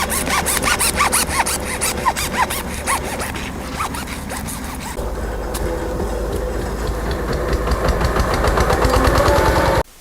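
Borehole drilling rig running, with a rhythmic squeal repeating several times a second over the motor noise. The sound changes character about halfway through, and cuts off suddenly near the end.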